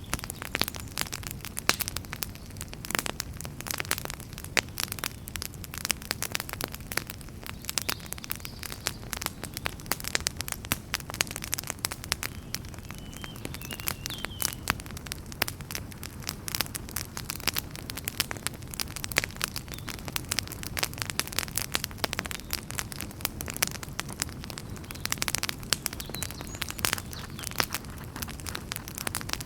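Wood fire in a fireplace crackling: dense, irregular sharp pops and snaps over a steady low rumble of the flames.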